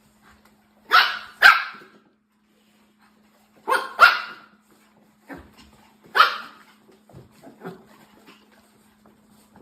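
A dog barking: two pairs of loud barks followed by a single bark, then a few softer short sounds.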